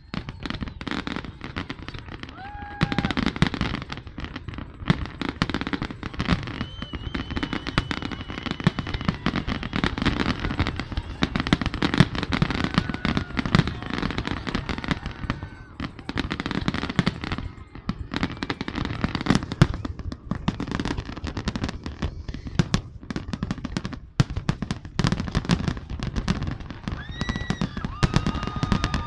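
Fireworks display: a dense, continuous barrage of bangs and crackling, with a few short whistling tones among them.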